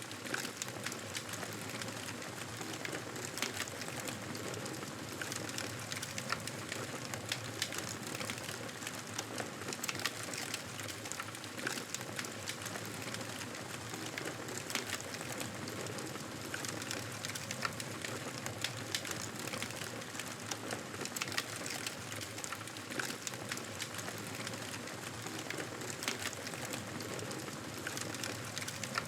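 Wood fire burning, with a steady hiss and frequent irregular crackles and small pops.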